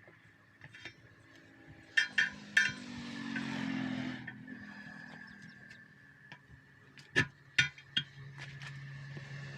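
Metal tools clinking in a tyre repair job: three sharp strikes about two seconds in and three more about seven seconds in, over a faint low hum.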